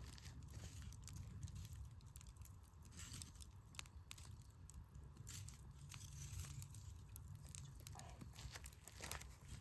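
Wood campfire crackling, with irregular small pops and snaps of burning firewood over a faint low rumble.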